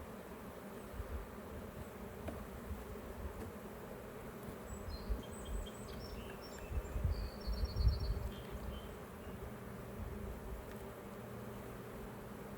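Honeybees from an opened, crowded hive buzzing steadily, with a few low bumps from about five to eight seconds in.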